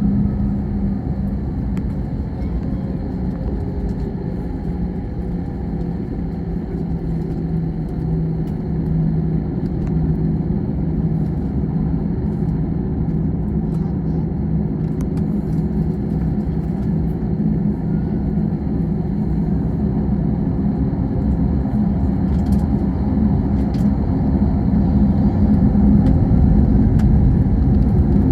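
Airbus A321 cabin noise from a rear window seat: a steady engine rumble with a droning hum, slowly growing louder toward the end.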